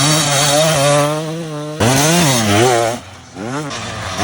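Dirt bike engine running at steady high revs, then revving up and down in quick swings; it drops back about three seconds in, then revs up once more near the end.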